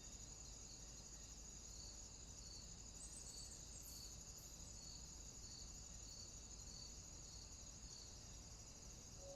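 Faint insect chorus of crickets trilling steadily, with a softer chirp repeating evenly a little under twice a second.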